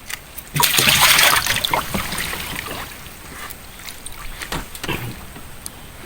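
Water splashing hard, loudest a little under a second in, then smaller splashes and trickling.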